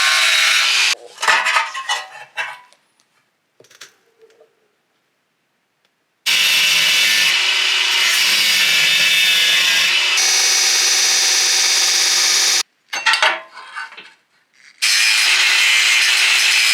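A power tool running in three long bursts that start and stop abruptly, with short spells of scattered knocks and clatter between them.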